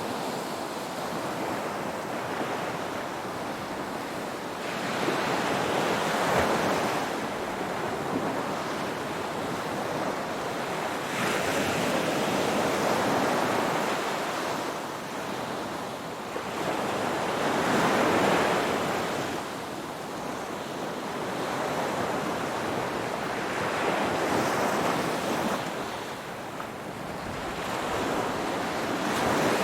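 Ocean waves washing onto a shore: a continuous rush of surf that swells and eases about every six seconds.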